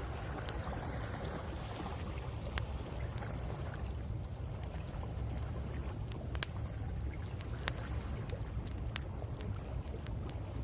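Wood fire crackling with scattered sharp pops, one louder pop about six seconds in, over a steady low rumble of waves washing on the shore.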